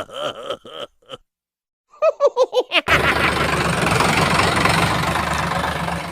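A vehicle engine starting: about a second of quick cranking pulses, then it catches and runs steadily. Before that, a wavering, groan-like sound dies away in the first second.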